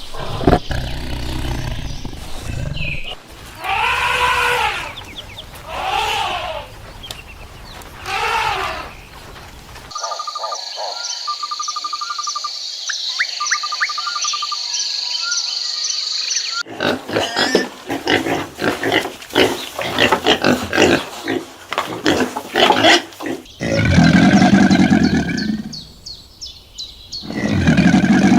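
A run of different animal calls cut together. Several arching, rising-then-falling calls come in the first ten seconds, then a high steady tone with quick ticking, then a stretch of rapid clicks. Two long, low moos from a cow close it.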